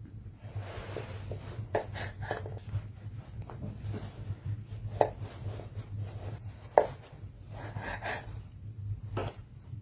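Wood being handled: irregular wooden knocks and scraping, with two sharper knocks about five and seven seconds in, over a low steady hum.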